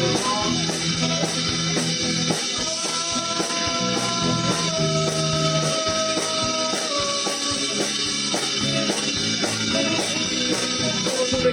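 Live rock band playing an instrumental passage: guitar holding long notes over a steady drum beat.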